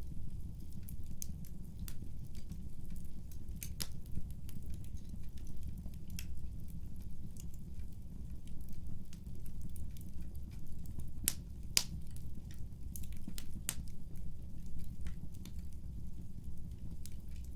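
A wood fire burning steadily with a low rumble, and scattered sharp crackles and pops from the burning wood, the loudest a little after 11 and 12 seconds in.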